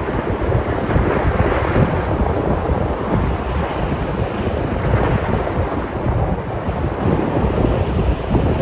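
Sea surf: waves breaking and washing in a steady roar, swelling gently a couple of times, with wind rumbling on the microphone.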